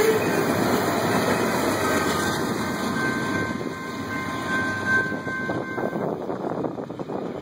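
BNSF diesel freight train rolling past close by, its wheels rumbling on the rails. A faint, steady high whine sounds through the middle. The noise fades after about six seconds as the rear locomotive pulls away.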